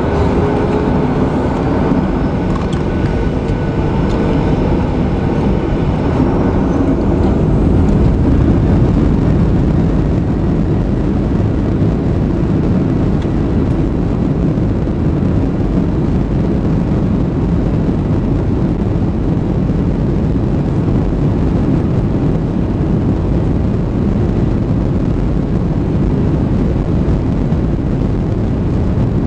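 Jet airliner engines running at high power, likely the take-off roll. A whine with a slightly rising tone fades in the first few seconds. A steady, loud rumbling noise swells about eight seconds in and holds.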